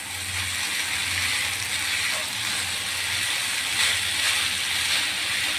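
Noodles and fried potatoes sizzling in hot oil in a frying pan while being stirred and tossed, a steady hiss with scraping from the stirring.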